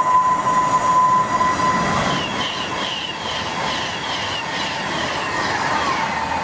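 Virgin Trains Class 390 Pendolino electric train running through the station at speed. A steady high whine gives way, about two seconds in, to the rushing noise of the carriages going by, with a quick repeated high chirping for a few seconds before the whine returns near the end.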